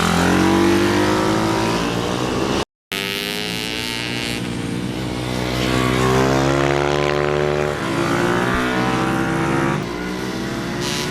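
Small pit bike motorcycle engines running hard on a track, their pitch sliding up and down as they rev and pass, with more than one engine heard at once. The sound cuts out for a moment about three seconds in.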